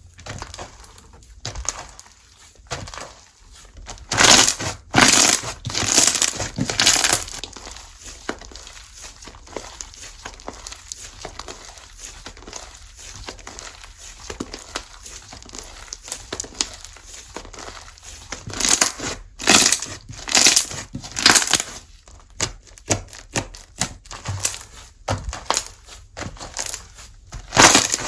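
Hands squishing, pressing and stretching slime, giving a run of small crinkly pops and clicks, with louder clusters of squelching strokes about four seconds in and again around nineteen seconds in.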